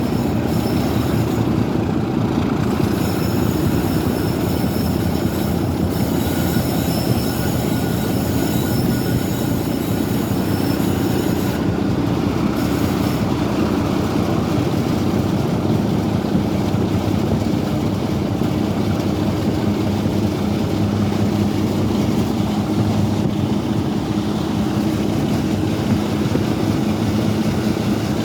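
Diesel locomotive hauling a train, its engine working loud and steady under load on the climb, with the rumble of the train's wheels on the rails.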